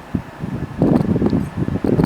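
Wind buffeting the microphone: uneven low rumbling gusts that dip about half a second in and surge again just before the end.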